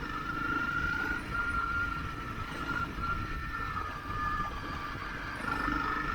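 Motorcycle being ridden, its engine running steadily, with a high whine that wavers slightly in pitch over a low rumble.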